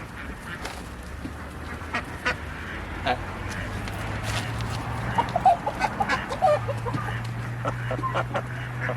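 Ducks calling in a holding pen, with short calls bunched about halfway through, among scattered knocks and clicks from handling. A steady low hum runs underneath and steps up in pitch twice.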